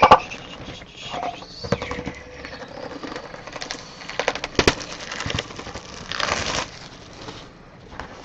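Trading-card packs being taken out of their cardboard box and handled: scattered light clicks and taps with crinkling wrappers, and a longer rustle about six seconds in.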